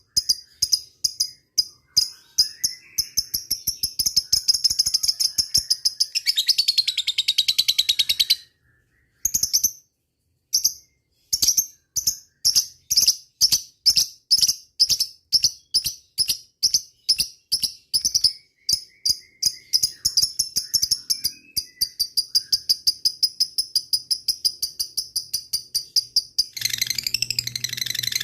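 Lovebird giving its long 'ngekek' chatter: sharp high chirps repeated several times a second, crowding together into a continuous rattling trill, with a short break about nine seconds in.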